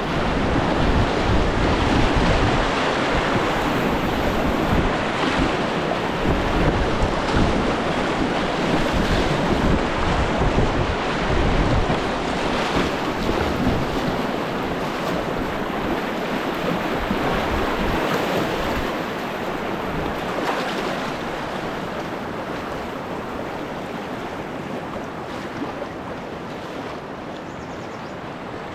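Whitewater rushing and splashing around a kayak as it runs through a rapid's wave train, with wind buffeting the microphone. The rush is loudest in the first half and fades gradually toward the end as the boat leaves the rapid.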